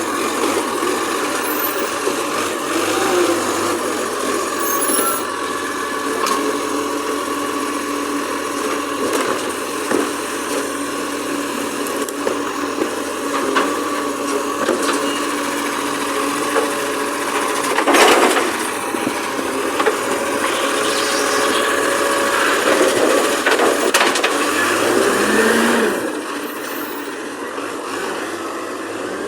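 Garbage truck running, its engine and machinery making a steady drone, with one loud clank about two-thirds of the way through.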